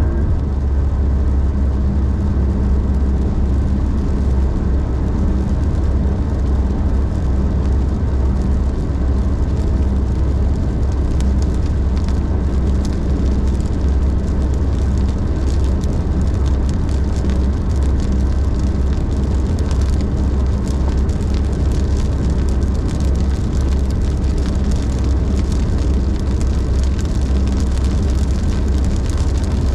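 Car driving at highway speed: a steady low rumble of road, tyre and engine noise with a hum. Light pattering of rain on the car comes in from about eleven seconds in.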